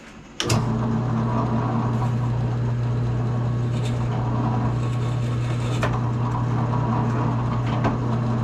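Drill press starting about half a second in and running steadily with a low motor hum, its 1/2-inch Forstner bit boring a hole through the wood of a guitar body.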